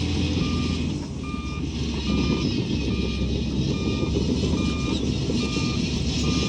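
Reversing alarm on heavy earthmoving machinery beeping steadily, about eight short beeps a little faster than one a second, over the steady running of a large diesel engine.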